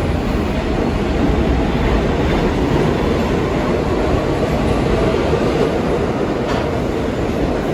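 New York City subway train running through the station: a loud, steady rumble of wheels on rail.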